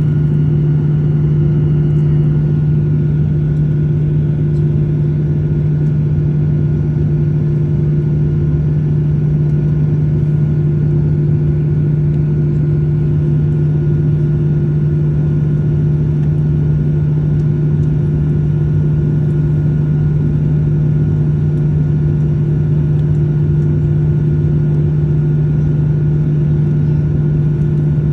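Airliner cabin noise: the jet engines and airflow make a loud, steady drone with a low hum that does not change.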